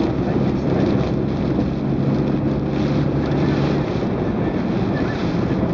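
Steady noise of a car on the move in typhoon wind and rain, with a low engine hum that drops away about four seconds in.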